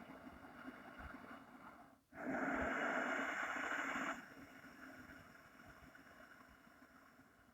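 Slow, audible breathing through a narrowed throat in Taoist 'fire breathing': the air rasps against the constricted throat with the mouth closed. A quieter breath gives way about two seconds in to a louder, two-second breath, which then fades.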